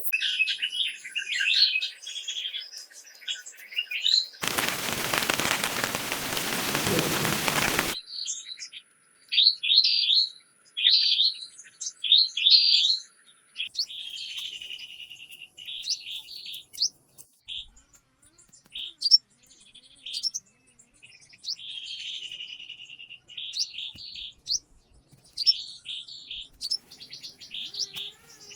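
Wild birds chirping and calling in short, repeated phrases. A loud, even hiss starts abruptly a few seconds in and cuts off just as suddenly after about three and a half seconds.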